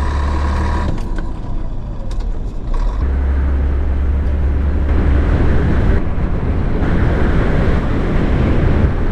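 Diesel engine of a 1989 Scania 93M lorry running as the lorry is driven, a steady low rumble. It drops back about a second in, picks up again about three seconds in, and grows fuller with more road noise from about five seconds.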